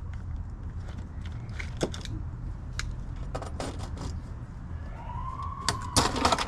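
Scattered small clicks and taps over a steady low rumble; about five seconds in, a siren starts up with a rising, then steady wail.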